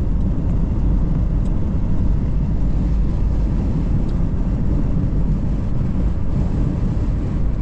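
Steady low rumble of a car driving on the highway, tyre and engine noise heard from inside the cabin, with wind rushing in through a slightly open window.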